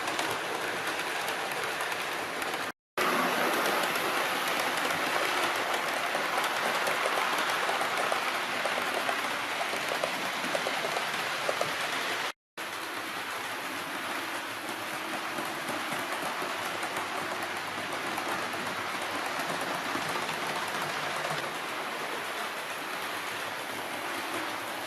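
OO gauge model train running along the layout track, a steady hiss of wheels on rails. It cuts out briefly twice, about three seconds in and about twelve seconds in.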